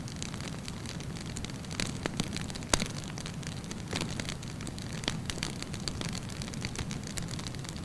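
Wood campfire burning with a steady low rush of flame, broken by frequent sharp crackles and pops, one louder pop a little under three seconds in.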